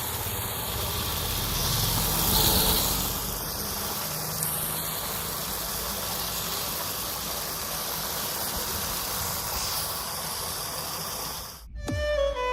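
Steady hiss of a water jet spraying while a bicycle is washed, with a low hum beneath; it cuts off suddenly near the end.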